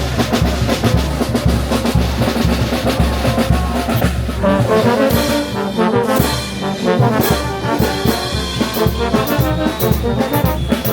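Brass band playing: drums and low brass keep a steady beat, then trumpets and trombones come in with the melody about four seconds in.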